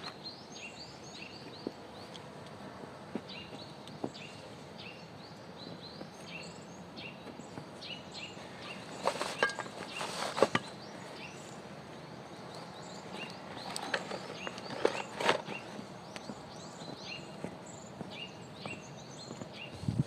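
Small birds chirping throughout, many short high calls in quick succession, with bursts of sharp crackling, like steps in snow or twigs snapping, about nine seconds in and again about fourteen seconds in.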